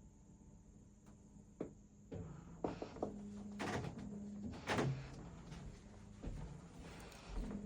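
3D printer's stepper motors humming as the print head moves, the low tone holding and then jumping to a new pitch with each move. Several sharp knocks or clacks sound over it.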